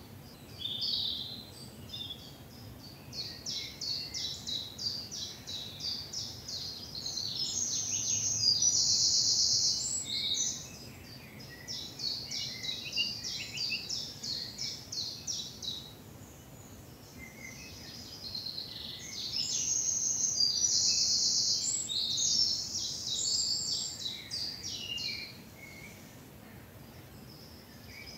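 Woodland songbirds singing in a spring morning chorus: several birds giving quick, high, repeated notes. Twice, once about a third of the way in and again about two-thirds in, one bird's louder, rapid song of several seconds rises over the rest.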